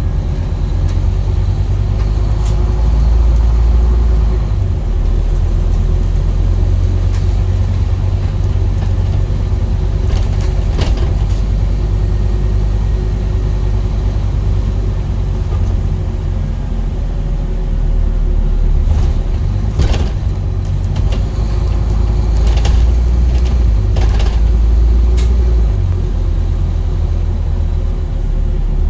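Scania N230UD double-decker bus's diesel engine running with a steady low rumble that swells a couple of times, with a few sharp knocks or rattles.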